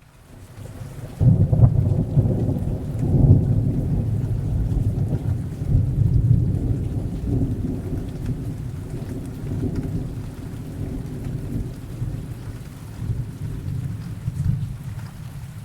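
A long, deep roll of thunder that breaks in about a second in and slowly fades, over steady heavy rain.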